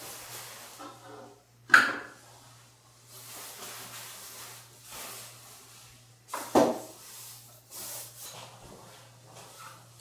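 Indoor handling sounds: rustling and shuffling of objects, with two sharp knocks like something being shut or set down hard, about two seconds in and again past the middle, over a steady low hum.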